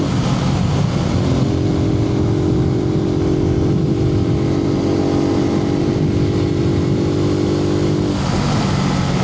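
Suzuki TU250X's single-cylinder four-stroke engine running at steady cruising speed, heard from inside the rider's helmet over wind noise. The engine note breaks and changes pitch about eight seconds in.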